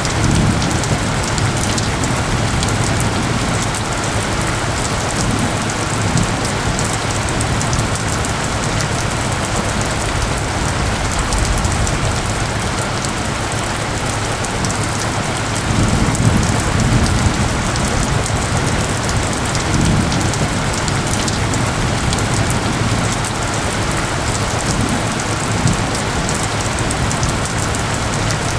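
Steady heavy rain falling on surfaces, an even hiss of drops, with a faint low steady hum beneath it. Low rumbles swell now and then, most strongly a little past halfway.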